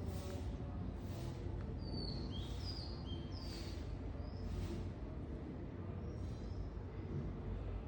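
A small bird giving a few short, sharp, descending chirps about two to three and a half seconds in, over a steady low background rumble.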